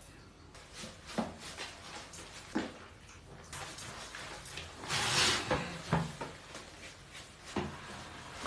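A few light knocks and thumps spread over several seconds, with a short scraping, rustling noise about five seconds in, the loudest part.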